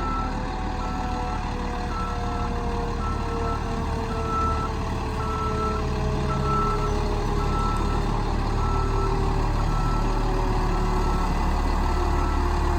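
Fire engine's reversing alarm beeping steadily, about two beeps a second, over the steady low running of its engine as it backs up.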